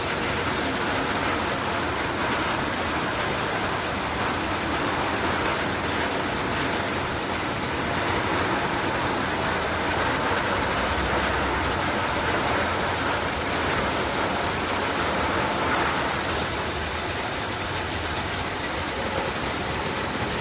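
Heavy rain falling, steady and even throughout.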